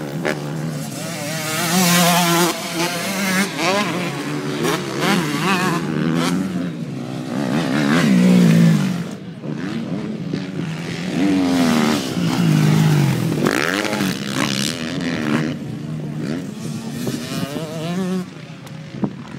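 Motocross bikes racing on the track, several engines revving hard and dropping off as they accelerate and shift, the sound swelling and easing off again several times as bikes pass.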